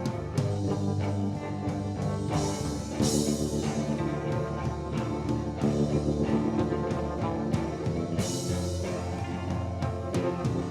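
Alternative rock band playing an instrumental passage on guitars and drum kit, with cymbal crashes about three seconds in and again near eight seconds.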